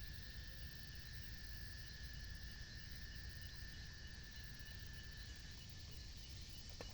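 Insects calling outdoors: a steady high-pitched drone that fades out about five and a half seconds in, with faint higher chirping over a low rumble. A single click near the end.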